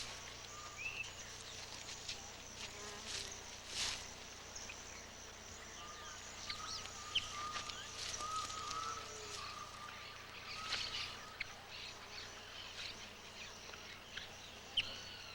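Steady, high-pitched insect drone with short repeated bird calls and scattered sharp clicks or rustles.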